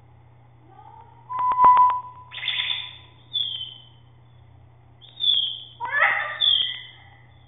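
Pet birds calling: a held whistle-like note with a few clicks, then a string of harsh squawks and short falling calls.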